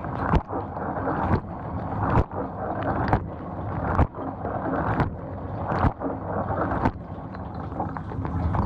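GE GDT655SSJ0SS dishwasher running a wash cycle: a steady rush of water sprayed and sloshing inside the tub, with a sharp knock about once a second. Its lower spray arm is not spinning.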